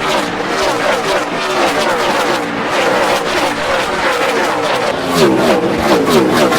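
Several NASCAR Cup Series stock cars' V8 engines running hard together, their pitches sliding up and down as they pass one another, with repeated falling swoops near the end.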